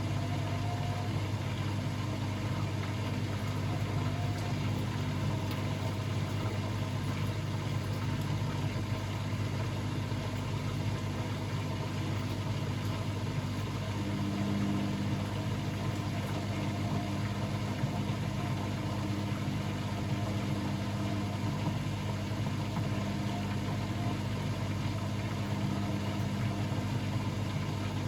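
Blomberg WAF 7442 SL washing machine running mid-cycle with a steady machine hum, a tone in it growing stronger about halfway through.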